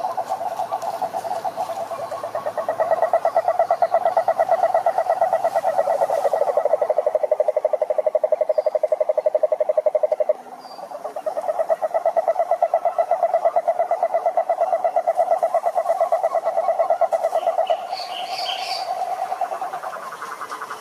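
Several toads calling: long, fast-pulsed trills overlapping at slightly different pitches, one stopping abruptly about halfway through while others carry on. A few brief high chirps near the end.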